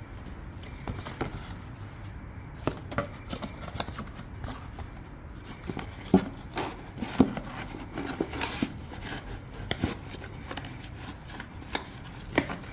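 Irregular clicks, taps and light knocks of hand tools and parts being handled during an oil change, with a few sharper knocks about six, seven and twelve seconds in.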